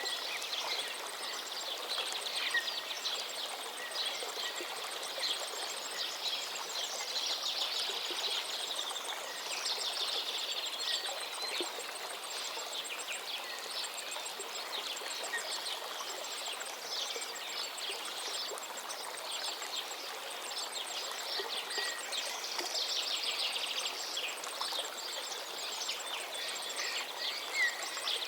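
Songbirds chirping and singing in dense overlapping phrases over the steady rush of a flowing river.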